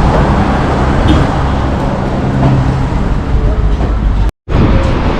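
Loud steady roar of a waterfall mixed with wind on the microphone, broken by a moment of silence near the end.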